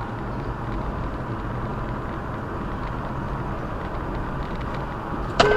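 Steady road and engine noise of a car driving. A car horn sounds suddenly near the end and is held.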